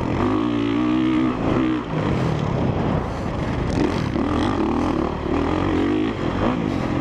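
A Honda CRF450R dirt bike's single-cylinder four-stroke engine under hard riding, the revs rising and falling again and again as the rider works the throttle through ruts and turns.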